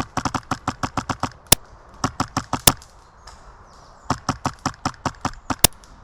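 Airsoft guns firing in quick semi-automatic strings of sharp clicks, about six shots a second, in three runs with short pauses between. A few louder, sharper cracks stand out among the shots.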